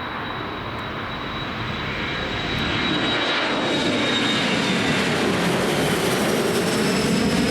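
Boeing 737-300's CFM56 jet engines at take-off power: a broad rush with a high fan whine that slowly drops in pitch, growing louder over the first few seconds and then holding as the jet passes.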